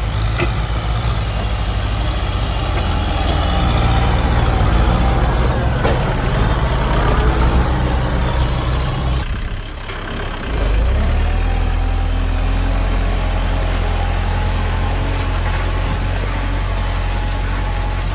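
Tractor engine running steadily with a low rumble. About nine seconds in it breaks off briefly, then runs on steadily.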